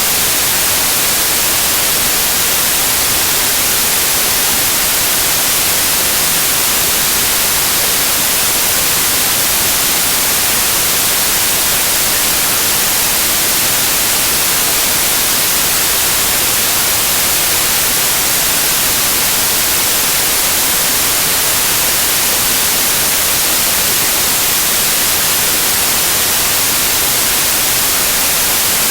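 Loud, steady white noise: an even hiss without changes, brightest in the highs.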